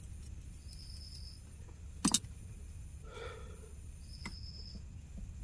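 Small clicks and taps of handling at a repair bench, with one sharper tap about two seconds in, over a steady low hum.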